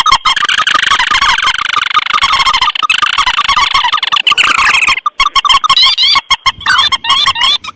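Bird-lure recording of paddy-field rails and crakes (mandar and tikusan), their calls overlaid into a loud, dense chorus of rapid repeated notes. About five seconds in, the thick run breaks off and gives way to repeated rising calls.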